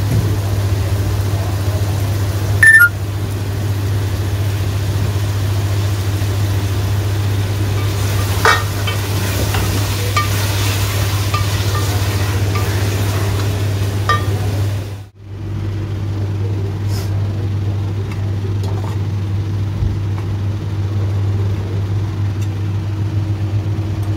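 Chicken and tomato masala frying in an aluminium pot over a gas burner, stirred with a spoon, with a steady low hum throughout. A loud sharp metal knock comes about three seconds in and a lighter clink at about eight seconds; the sound breaks off for a moment at about fifteen seconds and then the steady hum carries on.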